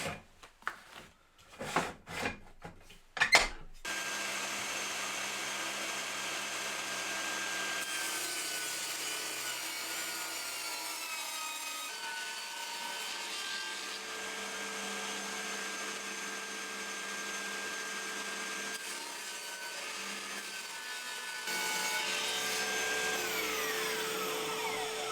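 Table saw ripping strips of MDF. The motor runs steadily and its pitch dips as the blade takes the cut, then slides down near the end. A few knocks and clicks from handling the boards come before the saw starts, about four seconds in.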